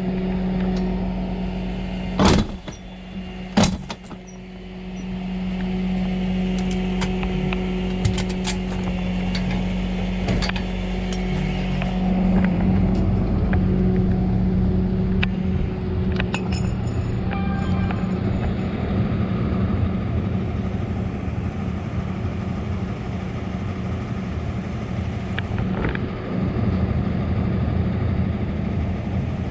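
A vehicle engine running steadily, with a low hum that grows somewhat fuller about twelve seconds in. Two sharp knocks stand out a couple of seconds in.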